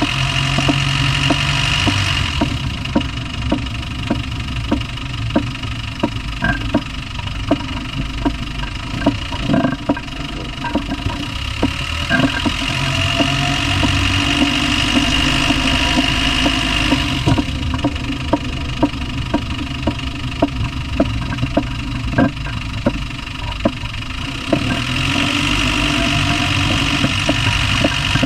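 Land Rover Discovery 1's 300Tdi 2.5-litre four-cylinder turbodiesel running, with a sharp, regular knock about twice a second over the engine note. The cause of the knock is unknown to the owner.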